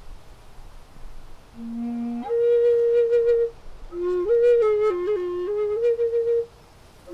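Solo flute melody of slow, held notes. A low note slides up into a long high note, then comes a short phrase of stepping notes, and the playing stops near the end.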